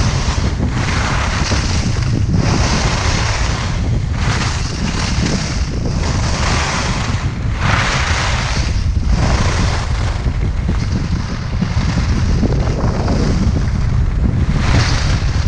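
Wind buffeting the microphone while skiing, under the scraping hiss of skis on icy, choppy snow that swells and fades every second or so.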